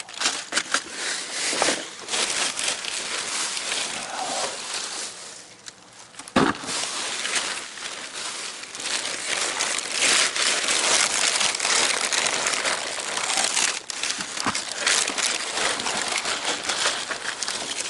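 Dumpster contents being rummaged through by hand: boxes and packaging crinkling and rustling continuously, with one sharp knock about six seconds in.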